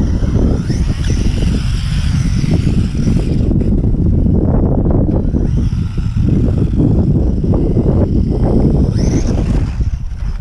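Wind buffeting the microphone, with the high whine of an RC short course truck's electric motor rising as it speeds up, about a second in and again near the end.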